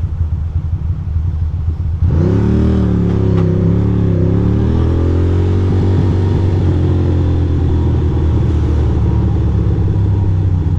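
2006 Ducati Monster 620's air-cooled L-twin engine idling, then pulling away about two seconds in, its revs rising and dipping through the gears before settling to a steady run.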